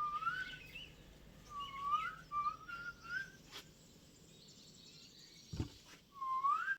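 A bird calling in clear, upward-sliding whistled notes: several in quick succession in the first three seconds and one more near the end. A single dull thump sounds shortly before the last call.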